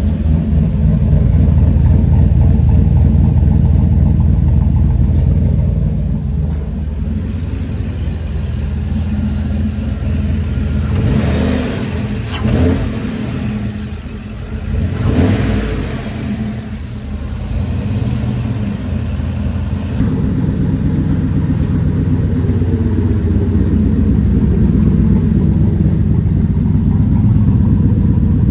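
Turbocharged LS V8 in a 1991 Chevy Silverado running through its new custom exhaust, with the throttle blipped twice about halfway through.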